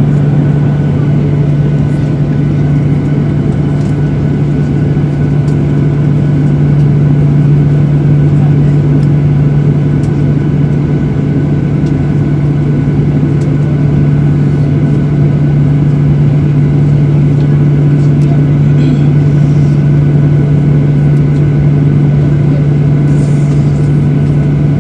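Steady cabin noise of a jet airliner: a low, even engine hum at one pitch with air noise above it, holding level without rising or falling.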